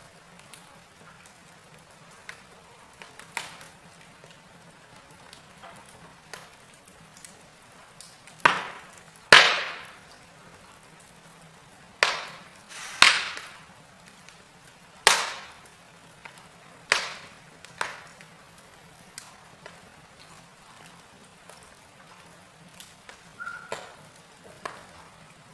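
Wood fire in a fireplace crackling: sharp, irregular pops and snaps over a low steady hiss, with a run of loud pops in the middle.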